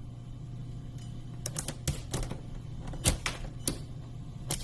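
A few irregular light clicks and knocks, about eight scattered through, over a steady low hum.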